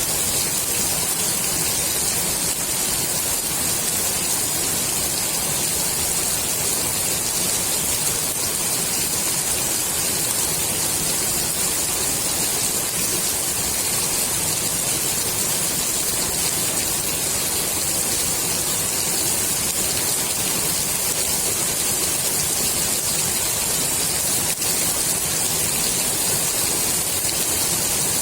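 Steady heavy rain falling on the water of a swimming pool, an even hiss of drops with no let-up.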